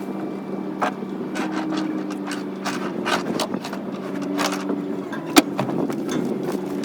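Scraping, rubbing and knocking as a steering cable is worked through the boat toward the hull, with a sharp knock about five and a half seconds in. Under it runs a steady mechanical hum.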